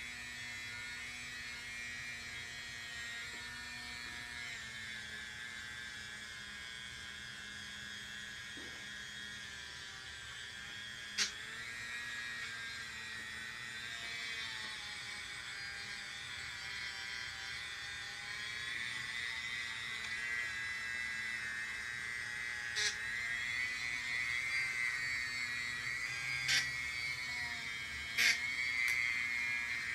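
Electric rotary tool spinning a rubber-bonded abrasive bit against a Honda transmission case, a steady high whine that wavers slightly in pitch. A few sharp ticks come in the second half.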